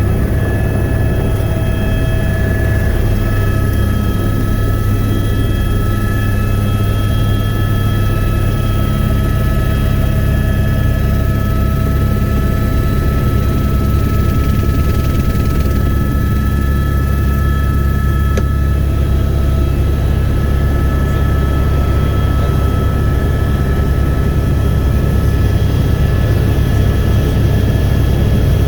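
Helicopter running steadily: a deep, loud drone with several thin, steady whining tones above it.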